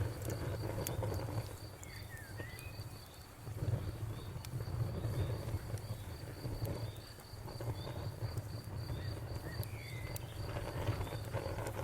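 Wood fire burning with a low rumble that swells and eases, and occasional sharp crackles and pops. A cricket chirps steadily in a fast, even pulse throughout.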